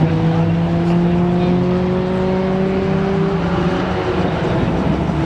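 Rally car engine running hard at high revs. Its pitch steps down right at the start, then falls slowly and steadily for about four seconds before breaking up near the end.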